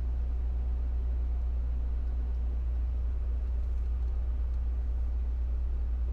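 Steady low drone of an idling semi-truck's diesel engine, unchanging throughout.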